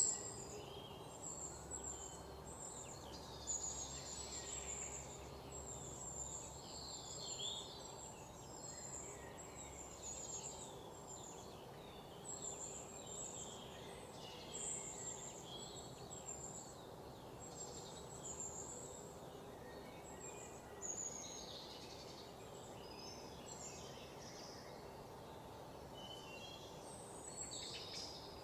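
Many birds chirping and trilling in woodland, short high calls overlapping one another throughout, over a steady soft background hiss.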